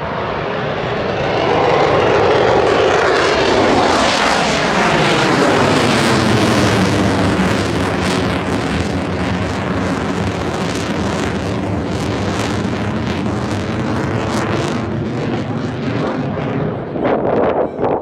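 Jet fighter passing low in a flyby: the roar builds over the first two seconds, sweeps down in pitch as it passes, stays loud for a long stretch and eases off near the end.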